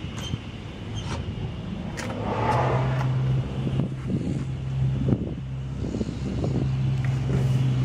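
A car's 3.8-litre V6 engine running with a steady low hum that swells a little twice. Several sharp clicks and knocks sound over it.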